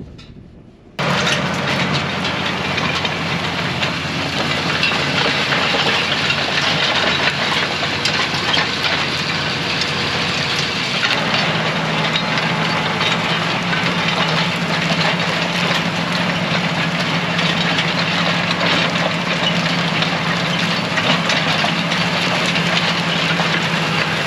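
Large farm tractor running steadily under load in the field, its engine note over a constant rattling, rumbling noise; the engine tone shifts about eleven seconds in.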